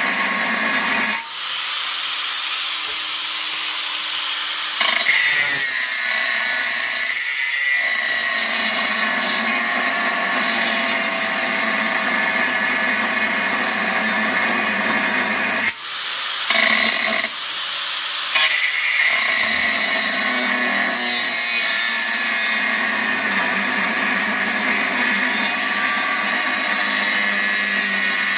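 Power tool working steel plate, running under steady load with a wavering whine. It dips briefly about a second in and again about halfway through.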